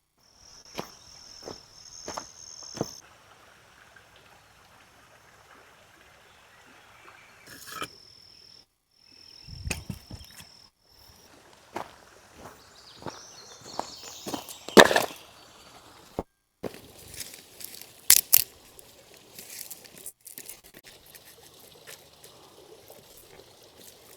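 A steady high insect trill that comes and goes in the first half, over irregular clicks, knocks and rustles. The loudest knock falls a little past halfway, with a few more soon after.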